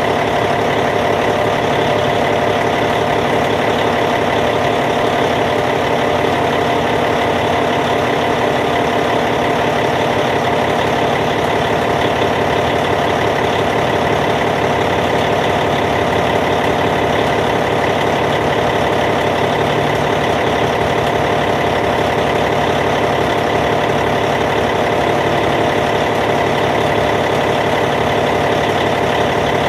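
Caterpillar C15 inline-six diesel engine of a Cat D8T bulldozer idling steadily, with an even, unchanging note throughout.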